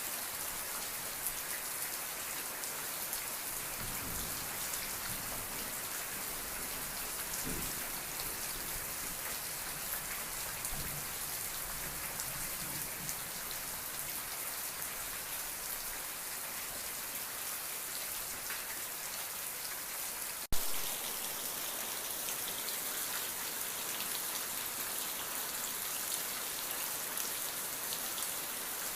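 Steady rain falling, a dense even patter of drops. There is a single sharp click about two-thirds of the way through.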